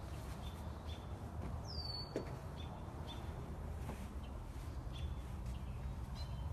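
Small birds chirping intermittently, short high chirps with one falling whistle about two seconds in, over a steady low background rumble.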